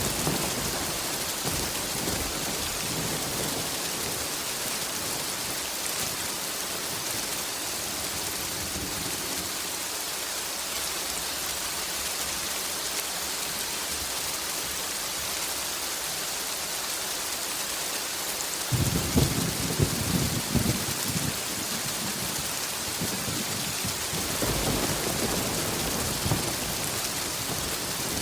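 Steady rain hiss with thunder: a low rumble dies away in the first few seconds, a sudden crackling thunderclap about two-thirds of the way in rolls on for a few seconds, and another low rumble builds near the end.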